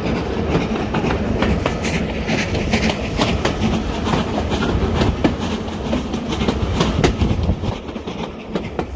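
Heritage railway carriage running along the track: a steady rumble with the clickety-clack of wheels over rail joints, a little quieter near the end.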